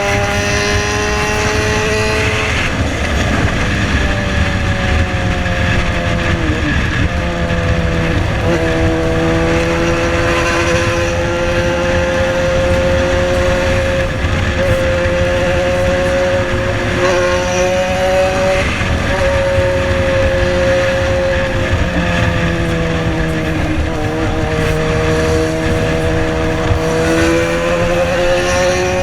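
Yamaha XJ6 inline-four motorcycle engine running through a custom-made exhaust while riding, over a steady rush of noise. Its revs hold fairly even, dip and recover several times as the throttle is eased and reopened, and climb near the end.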